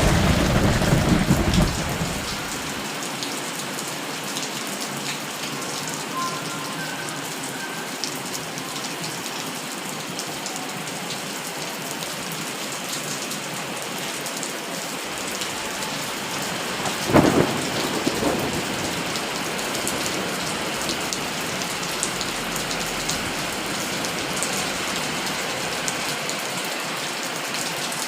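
Steady rain falling, with thunder: a low rumble in the first couple of seconds and a sudden loud thunderclap with a short rumbling tail about two-thirds of the way through.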